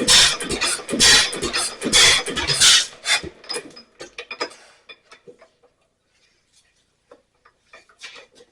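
1927 Ottawa 4-5 HP stationary engine, strokes about once a second, then dying away over a couple of seconds as the flywheel slows to a stop, with a few faint clicks near the end.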